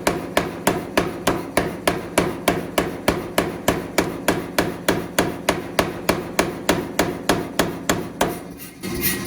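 Rapid, evenly spaced hammer blows on steel while forging a railroad anchor, about three strikes a second. The blows stop near the end and a steadier mechanical running sound takes over.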